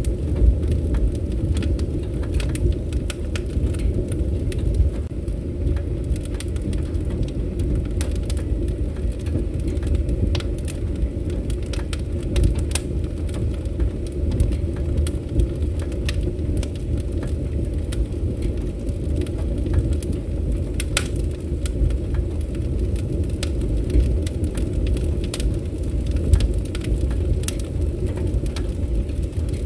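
Wood campfire burning: a steady low rumble with scattered sharp crackles and pops throughout.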